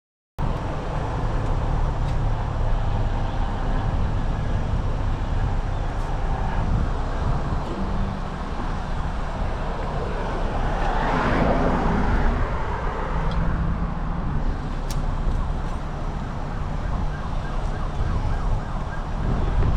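Street traffic noise with a steady low engine hum, and a vehicle passing more loudly about ten to twelve seconds in.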